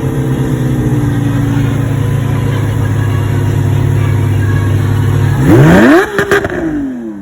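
A sports car engine idling steadily, then revved hard once about five and a half seconds in. It cracks a few times as the revs fall back and the sound fades.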